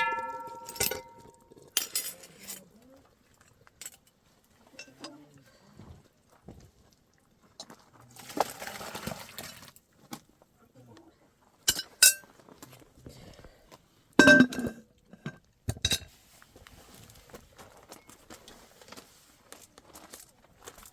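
Metal pots and dishes clinking and clattering: a ringing clink at the start, then scattered knocks with a few louder clanks.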